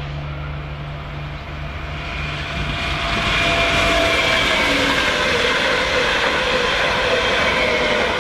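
Train passing on the line, getting louder about three seconds in, with a rushing rumble and a high whine that falls slightly in pitch.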